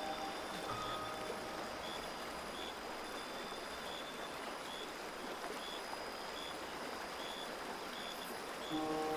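Steady rushing noise, with a faint high chirp repeating a little more than once a second; music comes back in near the end.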